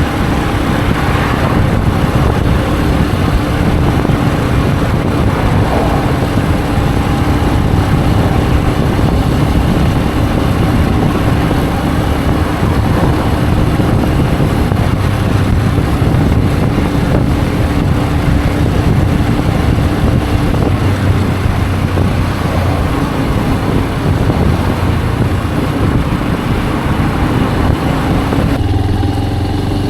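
Benelli BN125's single-cylinder engine running at a steady cruise under a loud rush of wind noise. Near the end the wind noise falls away and the engine settles to a lower note as the bike slows.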